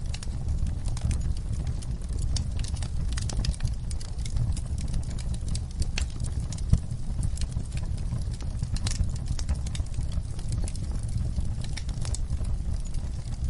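Wood fire burning in a fireplace: irregular crackles and pops over a steady low rumble, with one sharper pop a little past halfway.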